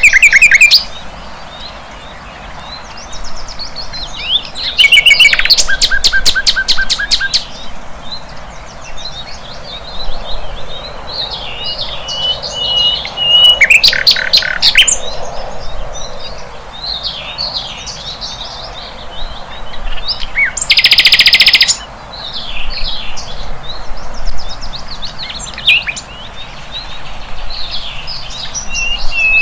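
Sikatan londo flycatcher singing: a varied run of high chirps and short whistled notes, broken by several fast rattling trills, the loudest about two-thirds of the way through, with a held whistle a little before the middle.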